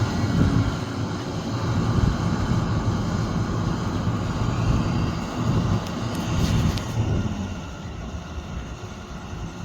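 Sumitomo SH370LHD-6 excavator's diesel engine running steadily. A brief high-pitched sound comes a little past the middle, and the engine grows quieter near the end.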